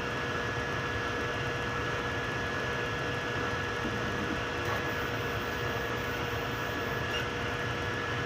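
3D printers running mid-print: a steady whirr of cooling fans and motors with a thin constant whine in it.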